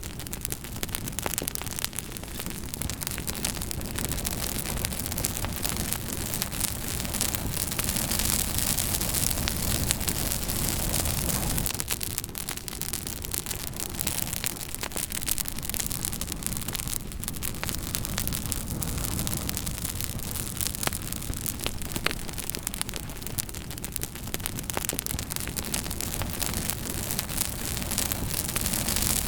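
Campfire burning, with a steady hiss and frequent sharp crackles and pops of burning wood.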